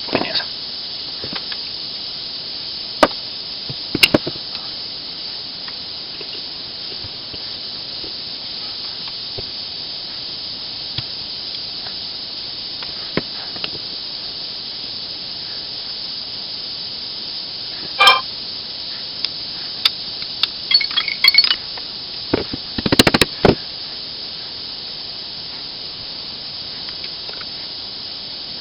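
Scattered sharp clicks and clinks of small nail gun parts being worked loose by hand, with a cluster of them in the second half, over a steady high hiss.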